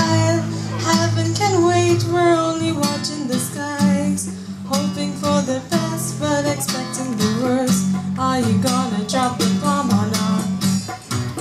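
A woman singing a melody with guitar accompaniment.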